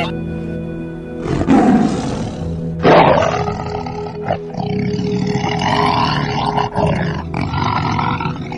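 A big cat roaring twice, loudly, about one and a half and three seconds in, then a long rough growl through the rest, over steady background music.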